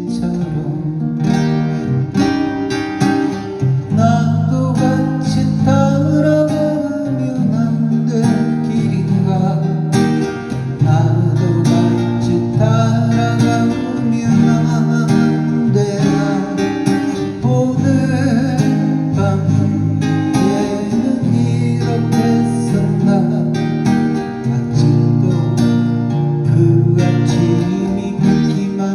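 Acoustic guitar strummed and picked through a folk song's instrumental passage, with a melody line over the chords.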